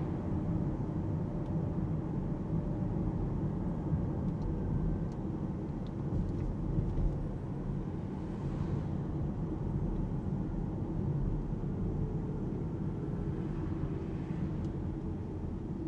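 Steady road and tyre noise of the Alpine A390 electric car driving on a suburban road, a low rumble with no engine note, with a faint rise in hiss about halfway through.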